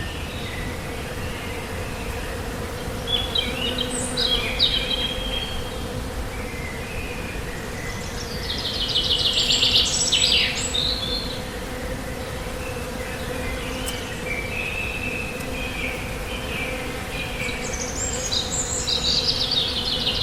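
Bees at a large hive buzzing in a steady hum, with birds chirping and trilling over it in short spells about three seconds in, around eight to eleven seconds, and again near the end.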